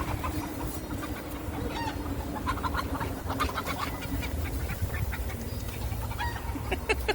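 Chickens clucking: a run of short clucks, thickest about halfway through and again just before the end, over a steady low hum.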